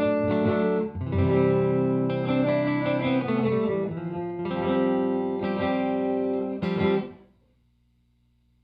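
Electric guitar strumming sustained chords through an Alabs Cetus reverb pedal, changing chords a few times and cut off abruptly a little over seven seconds in.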